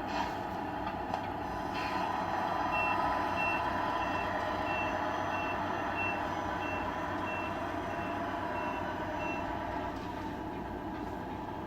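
A scale RC truck's electronic sound unit playing a diesel truck engine running, with a reversing beeper sounding about eleven short high beeps, one every two-thirds of a second or so, from about three seconds in until near the end. The engine sound swells a little as the beeping starts and eases back after it stops.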